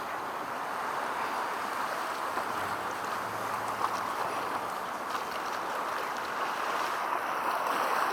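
Steady outdoor background noise with no distinct events, and a faint low hum for about a second and a half near the middle.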